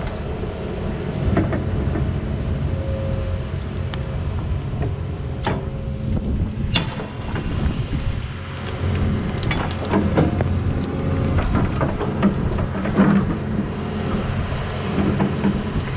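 Heavy equipment diesel engine running steadily under gusting wind noise on the microphone, with scattered knocks and cracks, most of them in the middle part.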